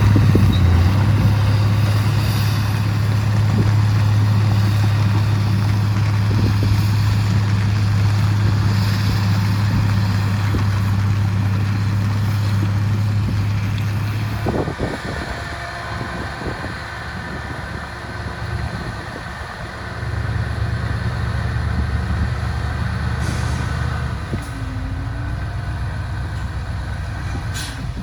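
Heavy diesel engine running steadily with a strong low hum. About halfway through it drops away with a knock, and it picks up again about two-thirds of the way in.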